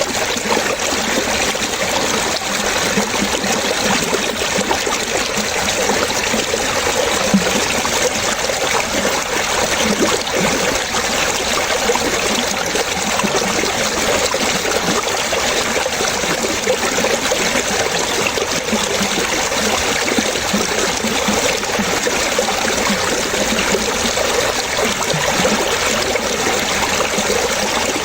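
Water splashing and trickling steadily, like a small stream running over stones.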